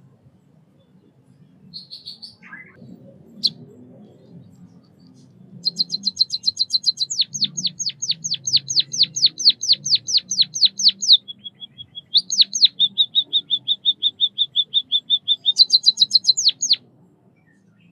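White-headed munia singing: a few short soft calls, then a long song of rapid repeated high notes lasting about eleven seconds, with a stretch of fast downward-sweeping notes, a brief thin held note, and more quick notes before it stops abruptly.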